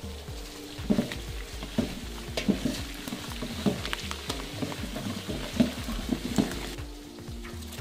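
Sliced shallots and fresh curry leaves sizzling in hot oil in a large aluminium pot. From about a second in, a steel ladle stirs them, knocking and scraping against the pot wall at irregular intervals.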